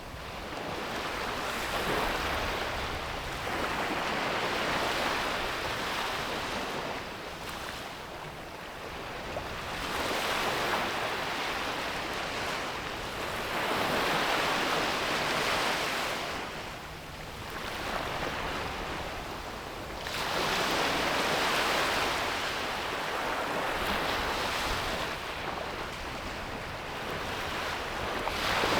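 Ocean surf breaking and washing up on a beach. Each wave swells into a rush and fades again every few seconds.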